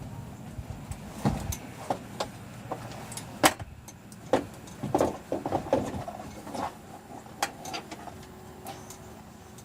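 Irregular sharp knocks and clanks of a manual wheelchair's metal frame and wheels being handled at a pickup truck's cab, about a dozen, the loudest about three and a half seconds in.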